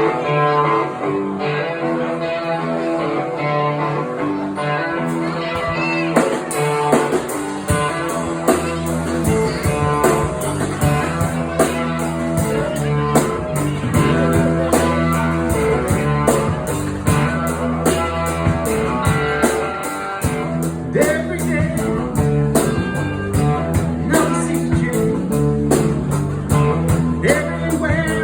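Blues-rock band playing: guitar opening the song, with drums and bass joining about a third of the way in and carrying a steady beat.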